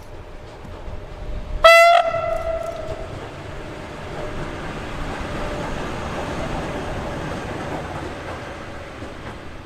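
A train horn gives one short, loud single-tone blast, followed by the steady rumble of a passing train that swells and then eases off.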